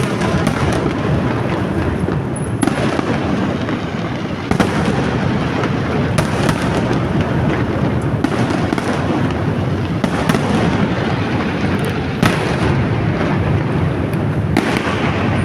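Fireworks display going off continuously: a dense crackle with many sharp bangs overlapping throughout.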